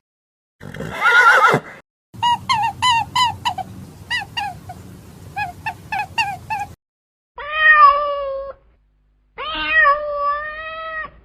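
Domestic cat meowing: a run of short, quick mews, then two long drawn-out meows near the end. A brief rough sound comes just before them, about a second in.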